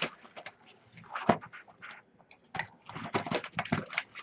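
Rustling, crinkling and light clicks of trading-card pack wrappers and cards being handled, in short irregular bursts with a brief lull about halfway through.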